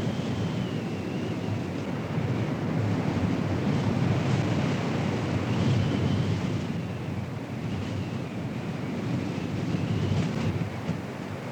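Strong wind blowing hard across the microphone: a steady low rushing rumble that swells louder around the middle. A faint high tone wavers slowly up and down through it.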